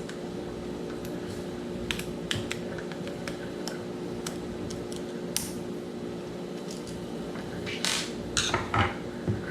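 Light clicks and taps of small metal parts inside an opened Daiwa Strikeforce 2000B spinning reel as they are handled around the anti-reverse pawl and spring, scattered, with a quick run of them near the end. A steady hum sits underneath.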